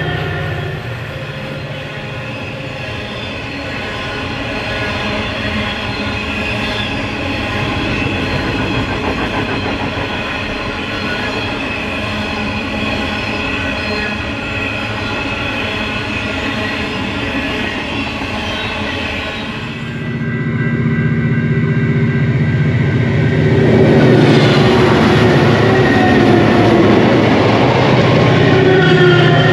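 Long string of grain hopper wagons rolling past on steel rails, with steady rolling noise and high ringing wheel squeal. About 20 s in it switches abruptly to diesel locomotives passing, a deep engine drone over loud wheel noise that grows louder about 24 s in.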